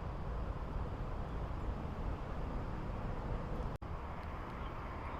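Steady, low outdoor rumble with no clear events in it, broken by a brief dropout nearly four seconds in.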